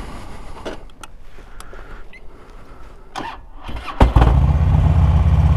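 A few small clicks and knocks, then about four seconds in the Harley-Davidson Electra Glide's V-twin engine starts and settles straight into a loud, steady low idle.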